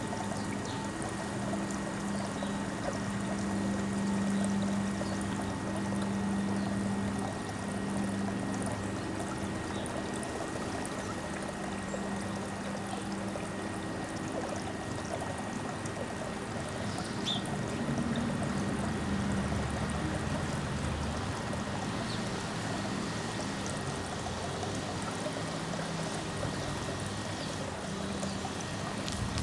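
Steady outdoor rushing noise with a low hum, strongest in the first several seconds, and a faint steady high tone throughout.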